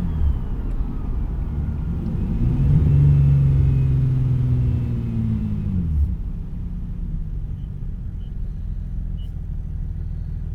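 Single-turbo Infiniti G37's 3.7-litre V6 under light city driving: a turbo whistle falls away in the first couple of seconds, then the engine pulls again with a rising note about two and a half seconds in. The note drops off sharply about six seconds in as the throttle is lifted, and the engine settles to a steady low hum.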